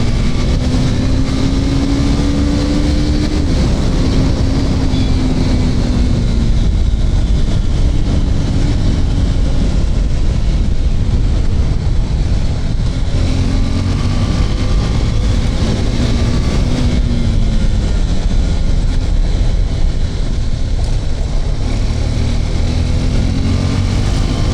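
KTM RC 390's single-cylinder engine running at speed under heavy wind rush, its pitch climbing and then dropping back several times as the bike accelerates.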